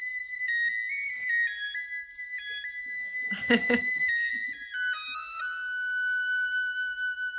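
A high-pitched, flute-like melody played as a sound example of high pitch: one line of held notes that step slowly downward. A voice cuts in briefly near the middle.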